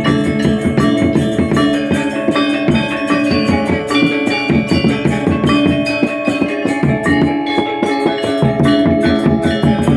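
Balinese gamelan gong ensemble playing: many bronze metallophones and gongs ringing in fast, dense strokes over drums.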